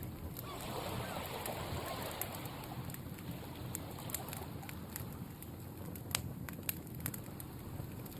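Campfire crackling with scattered sharp pops, the loudest a little past six seconds in, over the wash of sea waves that swells early on and eases.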